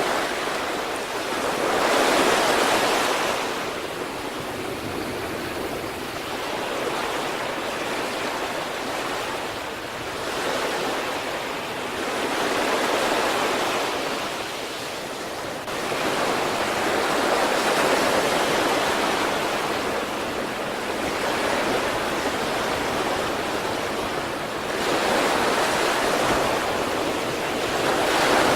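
Sea waves breaking on the shore, a continuous wash of surf that swells as each wave breaks, several times a few seconds apart.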